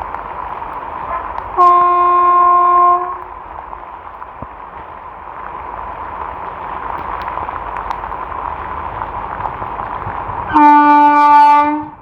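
Railway locomotive horn sounding two blasts, each about a second and a half long, the second lower in pitch, over the steady hiss of heavy rain.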